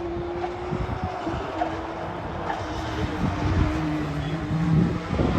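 Rally car engine running in the distance, a steady drone that sinks slightly in pitch, with a lower tone joining about four seconds in.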